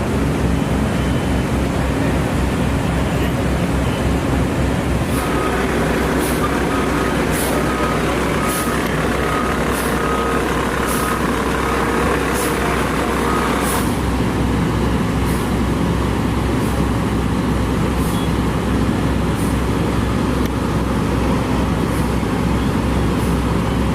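Heavy diesel truck engine running steadily at close range, with a low drone and street traffic around it; a repeated beeping tone sounds from about five seconds in until about fourteen seconds.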